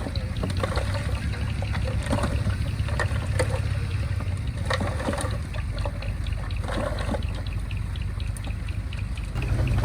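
Diesel engine of heavy earthmoving machinery running steadily, with scattered clanks and rattles over it.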